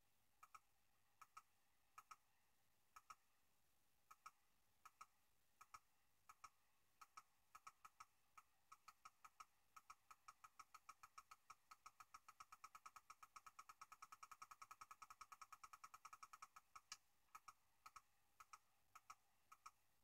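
Faint clicks of computer controls stepping through the frames of a map loop: single clicks a second or so apart, then a quick run of many clicks a little past the middle, then single clicks again.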